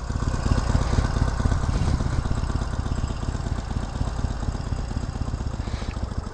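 Harley-Davidson Sportster Iron 883's air-cooled V-twin engine running at idle, a steady, even run of low pulses.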